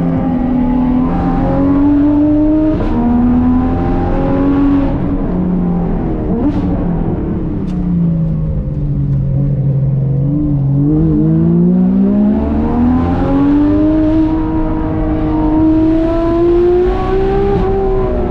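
Porsche 991.2 GT3 RS naturally aspirated 4.0-litre flat-six, with a cat-replacement pipe and street headers, being driven hard. Engine pitch repeatedly rises and drops as it pulls and lifts off, sinking low around the middle and then climbing steadily for several seconds near the end.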